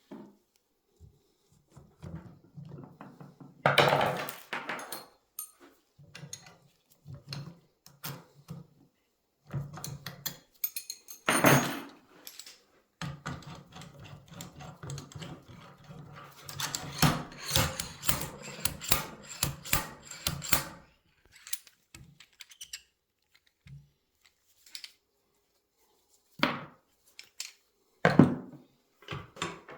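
Hand work on motorcycle front fork parts: irregular metal knocks, clinks and clatter as the fork tubes, seals and bushings are handled and taken apart, with a few sharp louder knocks and a busy run of clattering in the middle.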